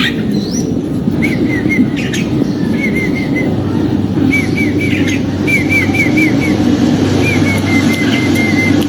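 Red-whiskered bulbul calling: runs of three to five short arched notes, repeated over and over, with a steady low rumble underneath.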